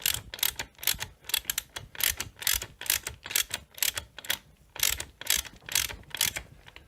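A hand ratchet clicking in quick back-and-forth strokes, about two or three a second, running crankcase screws down until they are snug. The strokes stop just before the end.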